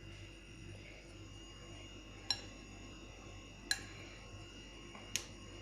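Three sharp clinks of a metal spoon striking a bowl, about a second and a half apart, each with a brief ringing tail, over a faint steady hum.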